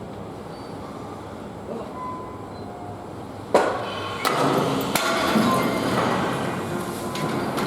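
Ship launch: low background noise, then a sudden sharp knock a little past halfway. Two more knocks follow, and the sound grows into a loud, continuous din of mixed noise.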